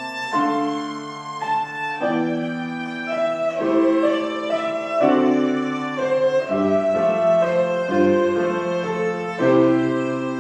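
A violin playing a melody of held notes over piano accompaniment.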